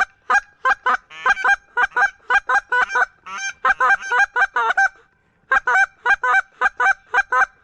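Goose call blown by a hunter: a rapid, even series of loud honks and clucks, about four a second, with a short pause about five seconds in, calling to Canada geese in flight.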